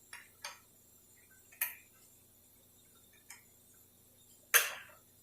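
Scattered metallic clicks and clinks of hand tools working the shift linkage bolts on a Dodge 46RE automatic transmission, the loudest about four and a half seconds in.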